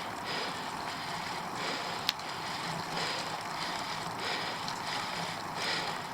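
A bicycle climbing a steep hill: steady riding noise, with swells that come back every second or so and one sharp click about two seconds in.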